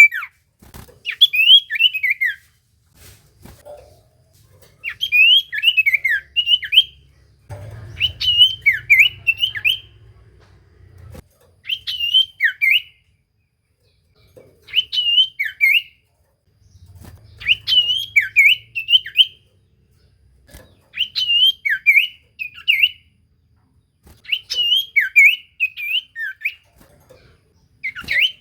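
Iora (sirtu cipoh) singing in full song: phrases of quick whistled notes, each sweeping down in pitch, repeated about every three seconds with short pauses between.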